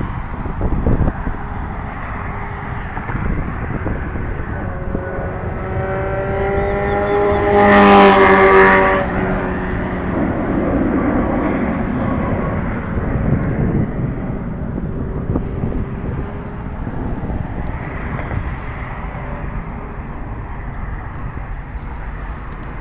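Steady traffic noise, with a vehicle passing close by about eight seconds in: a pitched whine that swells up to a short loud peak and then fades away.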